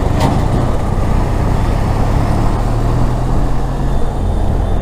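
Benelli TRK 502 motorcycle's parallel-twin engine running at a steady cruise, heard under heavy wind rush over the rider's microphone, with road traffic around.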